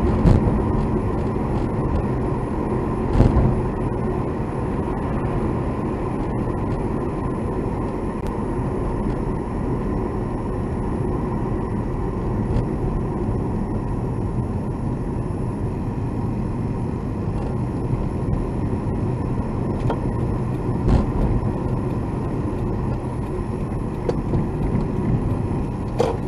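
Steady road and engine rumble inside a moving car's cabin, with a few short knocks; the strongest is about three seconds in, and others come about 21 seconds in and near the end.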